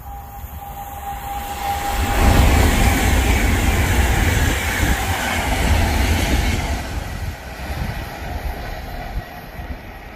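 Passenger train passing close at speed: the rush of wheels on rail swells sharply about two seconds in, holds for several seconds, then fades as it draws away.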